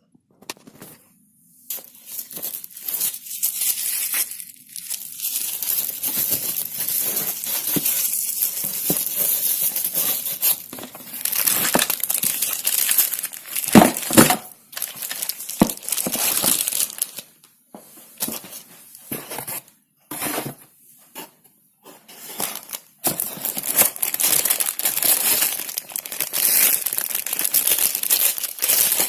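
Packaging being handled and crinkled in irregular stretches, with short silent gaps between them and a louder burst about halfway through.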